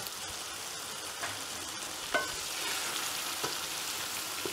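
Chicken keema and chana daal sizzling in a pan while a spoon stirs through it, with a few sharp knocks of the spoon against the pan.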